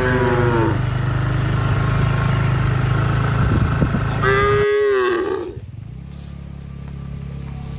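Cattle mooing: a call trailing off at the start and a second, falling moo about four and a half seconds in. A steady low hum runs underneath and drops away abruptly just before five seconds.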